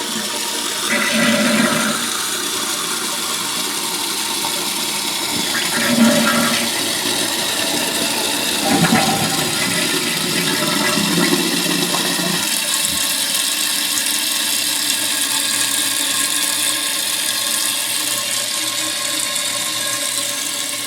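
Toilet flushing on a test flush, then the tank refilling through a Fluidmaster fill valve whose rubber seal has just been replaced. About two-thirds of the way in, the rushing gives way to a steadier, higher hiss of water filling at full rate, a sign the repaired valve is working.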